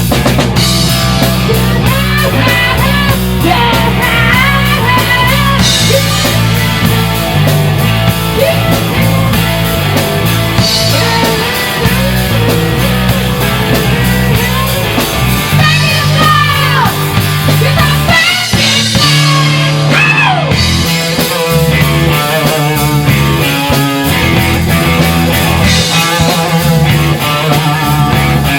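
Rock band playing live in a rehearsal room: electric guitars, bass and drum kit, with a wavering, bending lead line above the steady bass.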